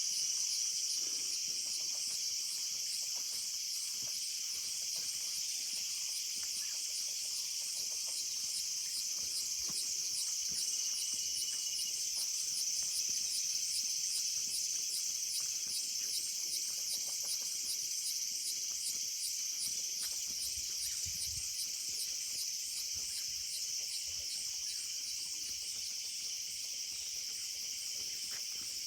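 Dense insect chorus: a steady high-pitched buzzing made of fast, regular pulses. A short thin whistle-like note sounds about a third of the way in.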